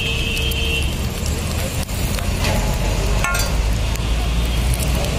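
Egg paratha sizzling in oil on a large flat griddle (tawa), over a steady low rumble of street traffic. A short high tone sounds at the start, and a metallic clink comes a little past three seconds in.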